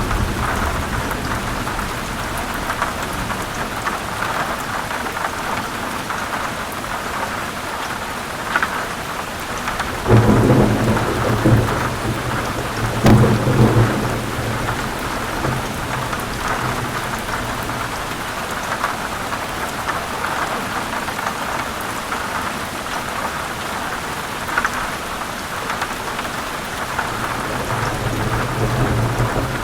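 Heavy rain falling steadily, with thunder rumbling loudly about ten seconds in and again about thirteen seconds in, and a softer low rumble building near the end.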